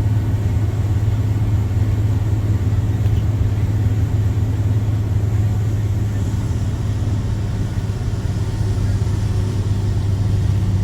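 Straight-piped Cummins C8.3 inline-six turbo diesel of a school bus running steadily, its open exhaust giving a deep, even drone.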